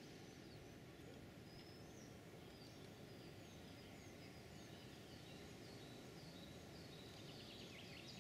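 Faint songbirds chirping, many short high notes scattered throughout and a little busier near the end, over a faint steady low hiss of outdoor background.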